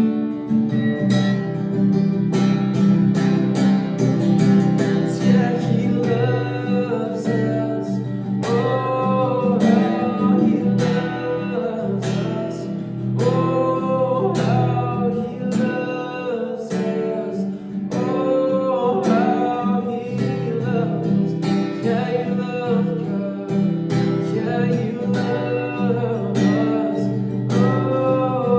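Acoustic guitar strummed steadily under a singing voice, whose sung lines come in strongly about eight seconds in.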